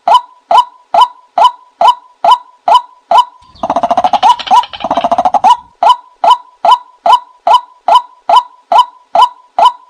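Repeated short bird calls at an even rhythm of about two and a half a second. Just over three seconds in, about two seconds of rapid, dense chattering calls breaks in before the steady calling resumes.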